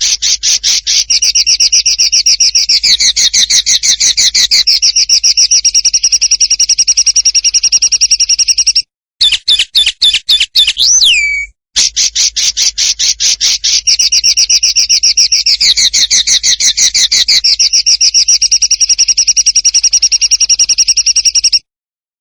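A songbird's rapid, harsh trill of very fast repeated notes, in two long bouts, each about ten seconds. Between them, about 9 to 11 seconds in, comes a short broken phrase ending in a downward-sweeping whistle. The second bout repeats the first note for note, as in a looped training recording.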